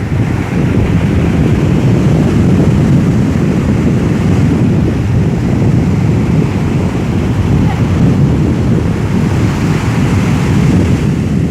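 Sea waves washing onto the shore in a steady, loud rush, with wind buffeting the microphone and adding a low rumble.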